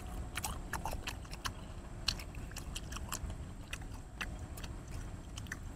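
Close-miked chewing of noodles: a string of small, wet mouth clicks and smacks coming irregularly, several a second.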